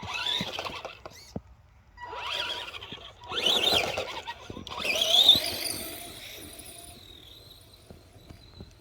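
Electric RC monster truck running in bursts, its motor whining up and down in pitch as it speeds off and slows again, over a noisy hiss of tyres on the ground.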